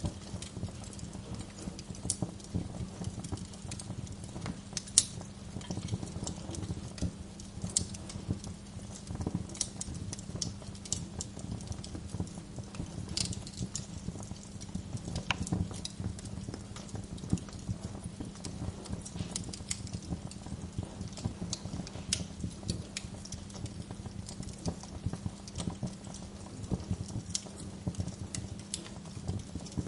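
Wood fire crackling steadily, with many small irregular pops and snaps over a low, even rumble of burning; one sharper pop about five seconds in.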